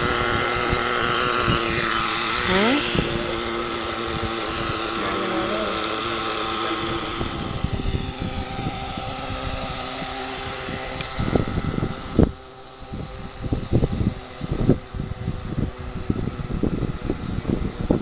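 Small single-cylinder nitro engine of a radio-controlled car running at a high-pitched whine, its pitch sweeping about two to three seconds in, then fading away over the next few seconds. After that come irregular low thumps.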